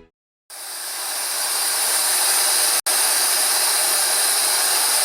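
Steam hissing steadily from the Puffing Billy replica steam locomotive. It begins about half a second in, builds over the next second, then holds, with a split-second break near the middle.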